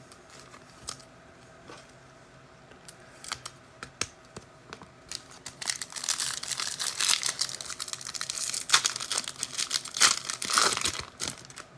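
Trading-card pack wrapper being torn open and crinkled by hand: a few light clicks and rustles at first, then about five seconds in a long run of dense crinkling and tearing.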